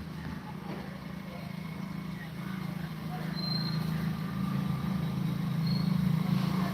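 A steady low engine drone that slowly grows louder, with a few faint short high chirps.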